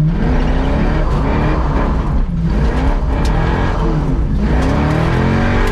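Car engine revving up and down over and over, its pitch climbing and dropping several times, as in drifting on a track.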